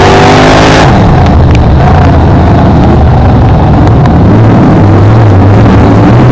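BriscaF1 stock car's V8 engine heard on board, very loud. About a second in the throttle is lifted: the hissing top end dies away and the engine note drops. The note builds again over the last couple of seconds.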